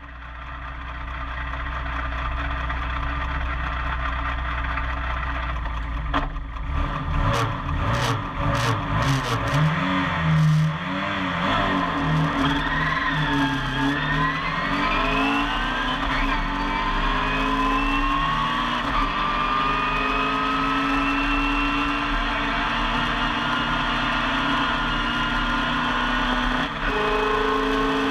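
In-car sound of a Mini Miglia racing Mini's A-series four-cylinder engine. It hums steadily at first, then revs up and down unevenly with some sharp clicks, then pulls steadily up through the revs, with a gear change near the end.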